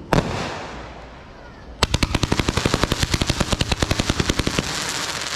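Consumer fireworks: a single sharp bang right at the start, then, nearly two seconds in, a rapid string of cracks at about ten a second for nearly three seconds, fading into crackling.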